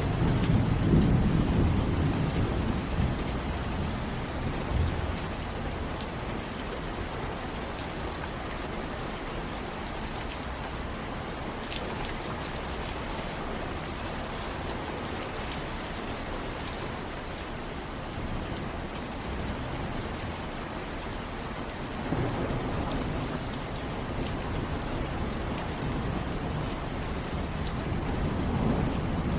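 Steady heavy rain falling and pattering on surfaces, with low rolls of thunder rumbling in the first few seconds and again twice near the end.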